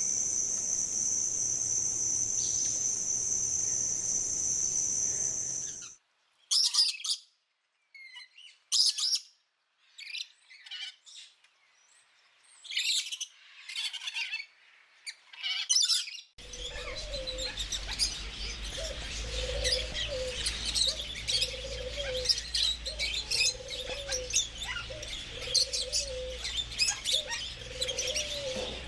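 A steady high insect drone that cuts off abruptly about six seconds in. Then scattered bird chirps with silent gaps, and from about sixteen seconds a busy chorus of chirping songbirds, over which a lower call repeats about once a second.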